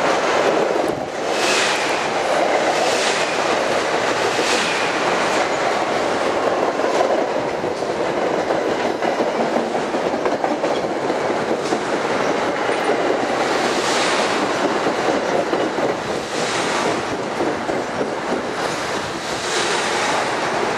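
Electric commuter multiple-unit train running past along the platform. Steady rolling rumble of wheels on rail, with wheels clicking over rail joints every second or few as the cars go by.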